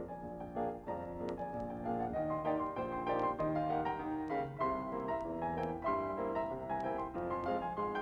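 Background piano music: a lively run of notes with many quick attacks.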